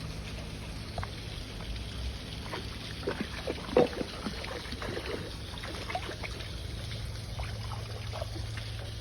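Running water from a stream and waterfall, with a string of short splashes around the middle, the loudest about four seconds in.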